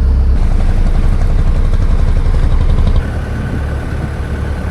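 Motorboat engine running steadily with a loud low rumble. About three seconds in it drops to a quieter run with a faint steady whine over it.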